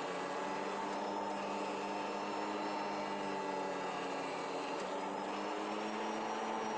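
Automatic fabric cutting machine running with a steady machine hum, its pitch shifting slightly about five seconds in.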